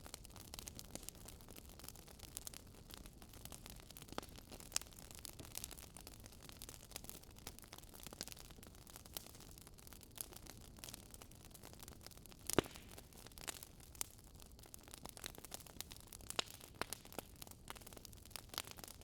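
Wood fire crackling: scattered, irregular pops and snaps over a low steady hiss, with one sharper pop about twelve seconds in.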